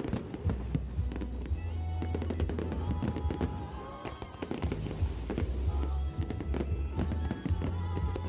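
A fireworks display: many shells bursting and crackling in quick succession, over loud music with a heavy bass.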